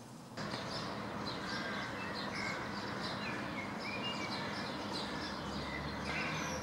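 Small songbirds giving many short, scattered chirps and calls over a steady rushing background noise, which comes in abruptly about half a second in.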